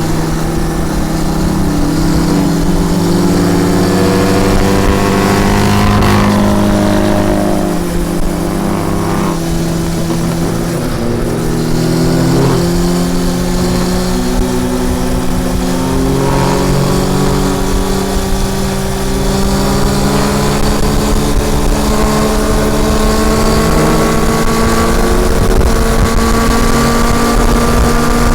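Honda CB400 Super Four's inline-four engine running on the move. The revs hold, dip and change a few times in the first half, as with gear changes, then climb steadily through the second half.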